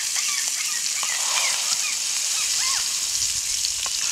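Birds chirping, many short rising and falling calls in quick succession, over a steady high hiss.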